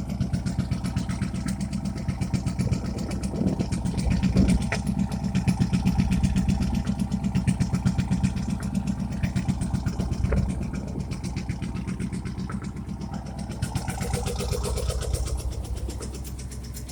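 1999 Cadillac Escalade's 5.7 Vortec V8 running on a cold start through straight pipes with no cats or muffler, a rapid pulsing exhaust note. Its knock-like beat sounds like a rod knock, but the owner puts it down to a misfire on the number 2 cylinder. The engine gets louder a few seconds in and settles back down about ten seconds in.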